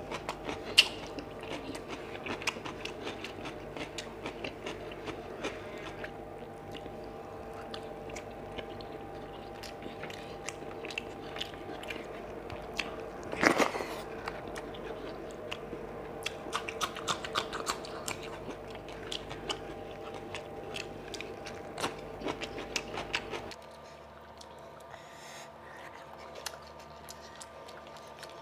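Close-miked eating sounds of rice and fish curry eaten by hand: wet chewing with many small clicking mouth sounds and the squelch of fingers working wet rice and gravy, with one louder burst about halfway through. A steady hum underneath cuts out abruptly near the end.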